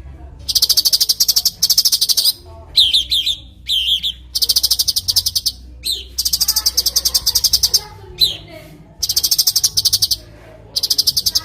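Cucak cungkok songbird singing: about five bursts of very fast, high rattling trills, each about a second long, with short downward-slurred notes between them.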